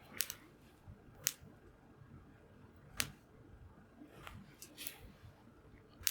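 Wood fire crackling, with several sharp, irregularly spaced pops from the burning wood.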